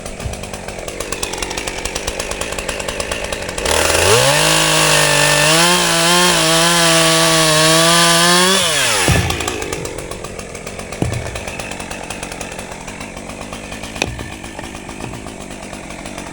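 Chainsaw idling, then revved to full throttle about four seconds in and held there for some five seconds as it cuts through a log, before dropping back to idle.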